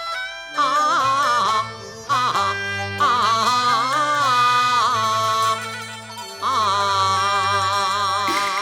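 Cantonese opera music: long, drawn-out notes with a wide vibrato, sung or played over the ensemble's accompaniment, in several phrases with short breaks between them.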